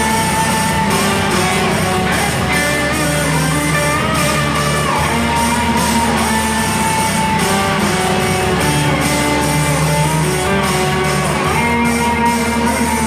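Live band music led by electric guitar, with sustained notes that bend in pitch over a steady low end.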